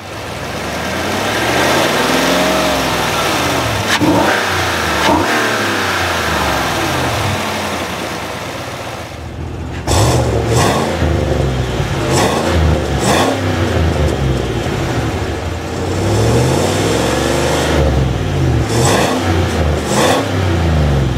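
2015 Cadillac Escalade's 6.2-litre V8 free-revving while parked, its pitch rising and falling several times. About ten seconds in, the sound turns louder and closer at the exhaust tips, with a run of quick throttle blips and one longer rev.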